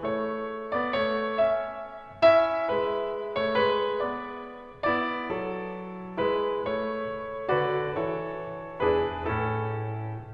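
Background music: a slow piano melody, notes struck one after another and left to fade.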